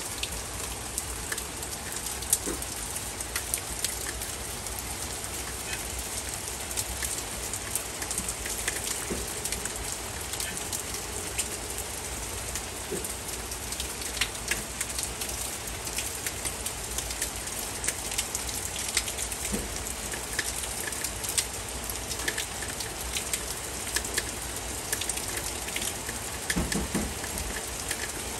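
Heavy rain pouring down steadily: a dense hiss broken by many sharp, close raindrop ticks.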